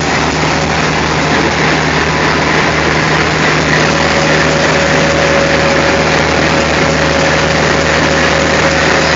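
Diesel locomotive engine running at a steady idle with a deep, even hum. A faint steady whine joins about four seconds in.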